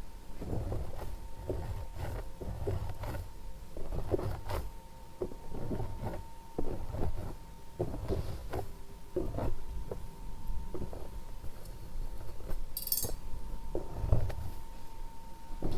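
Close-miked handling sounds: irregular soft taps, clicks and rubbing, with a short hiss about 13 seconds in.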